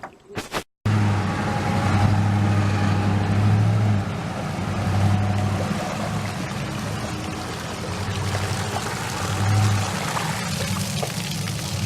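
Water pouring and splashing, over a low droning hum that swells and fades every second or two.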